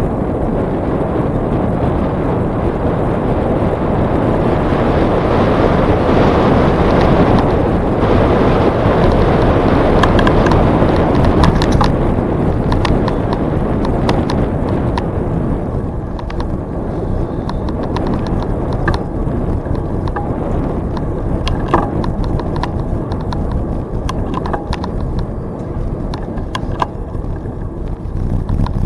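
Wind rushing over the microphone with tyre noise from a bicycle in motion, heaviest in the first half, joined from about a third of the way in by scattered clicks and rattles from the bike over bumps.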